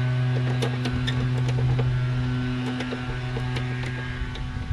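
A steady motor hum with a low drone, overlaid by scattered light clicks and knocks of metal parts being handled, as the loose front wheel assembly of a mower is worked by hand.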